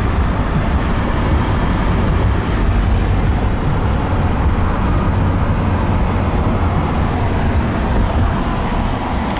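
Steady road noise heard from inside a moving car: a continuous low rumble of tyres and engine.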